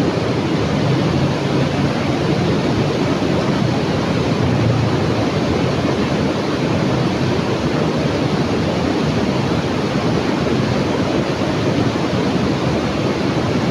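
Fast-flowing river water rushing steadily, a loud even rush with no breaks.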